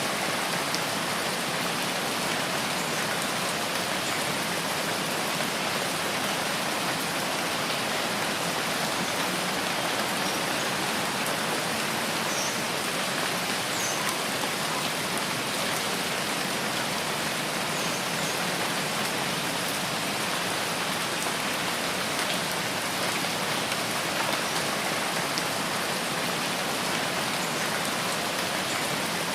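Steady rain falling on rain-forest foliage: an even, unbroken hiss of drops, with a few faint high peeps near the middle.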